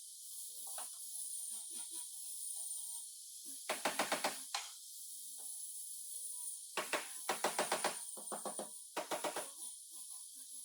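Bursts of rapid knocking, tools striking car body metal, several strikes in quick succession in each burst, over a steady high hiss.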